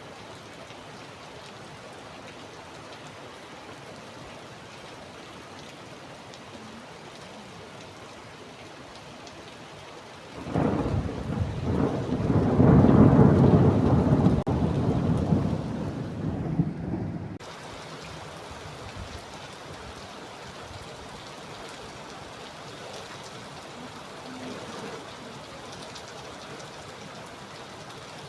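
Steady rain falling throughout. About ten seconds in, thunder breaks suddenly and rumbles loudly for about seven seconds, swelling and then dying away into the rain.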